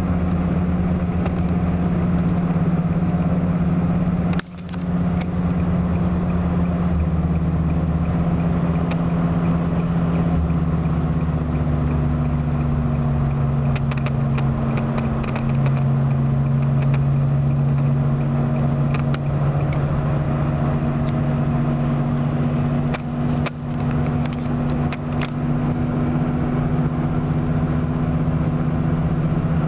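Inside the cabin of a 2004 Nissan Maxima 6-speed cruising above 120 km/h: its 3.5-litre V6 and aftermarket exhaust (headers, cat-back, Magnaflow resonator and mufflers) hum steadily under road noise. The owner says the added resonator and catalytic converter have cured the drone and rasp. The sound dips briefly about four seconds in, and the engine note shifts a little lower around ten and fifteen seconds in.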